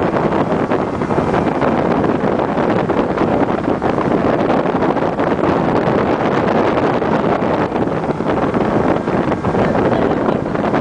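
Steady rushing wind buffeting the microphone, with water and boat noise beneath, as on a banana boat towed at speed.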